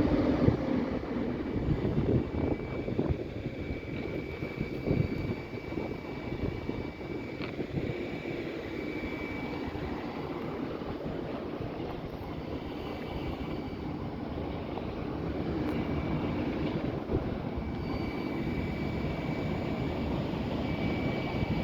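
Electric passenger train running at the station platform: a steady rumble with a thin high whine that comes and goes.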